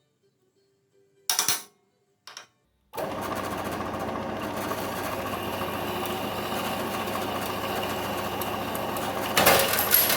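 An electric metalworking tool in a workshop runs steadily for about six seconds, a dense even mechanical buzz with a rapid fine texture, preceded by two short clicks and getting louder briefly near the end.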